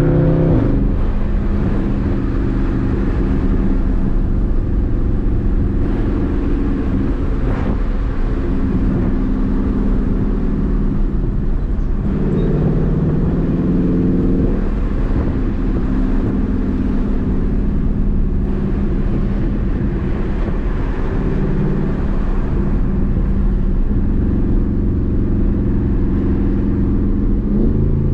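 Dodge Charger Daytona 392's 6.4-litre HEMI V8 running while the car is driven at moderate speed, its note rising under light acceleration a few times, notably about twelve seconds in, over steady road noise.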